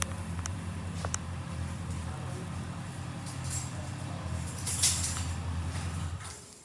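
Honda GL1800 Gold Wing's flat-six engine idling steadily, with a brief hiss about five seconds in. The engine note dies away near the end as it is switched off.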